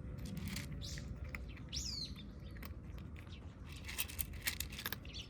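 A single bird chirp, falling in pitch, about two seconds in, over scattered sharp crunching clicks of cats chewing dry food.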